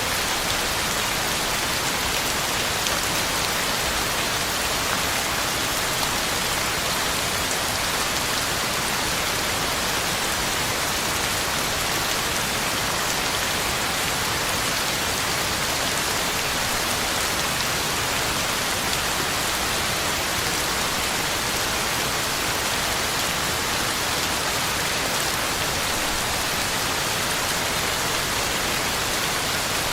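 Heavy rain falling steadily, an even hiss of drops on the ground and leaves.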